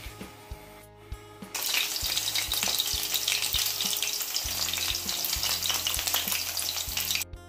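Stuffed lotus root slices frying in hot oil in a wok: a loud, steady sizzle that starts about a second and a half in and cuts off abruptly near the end, over quiet background music with a steady beat.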